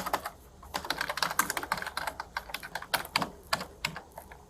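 Typing on a computer keyboard: an irregular run of key clicks that thins out near the end.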